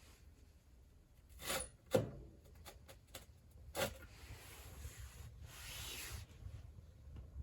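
Wood being handled at a wood stove: short scrapes and a sharp knock about two seconds in, a few light clicks, then a longer soft scraping rustle.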